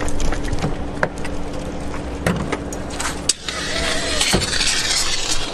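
A car engine that has thrown a piston, running with a steady hum and scattered clicks; from about three and a half seconds a hissing noise joins in.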